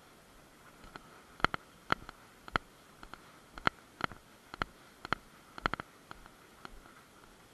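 A series of about a dozen sharp, irregular clicks, several in quick pairs, over a faint steady hiss.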